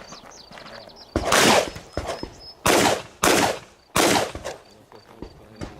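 Four shotgun shots, each with a trailing echo: a single shot about a second in, then three faster shots less than a second apart.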